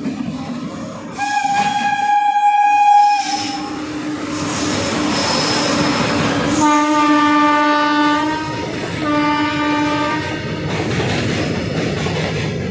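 Electric trains passing a platform, wheels running on the rails throughout. A high-pitched train horn sounds for about two and a half seconds early on, then a lower-pitched horn gives two blasts in the middle, the first longer than the second.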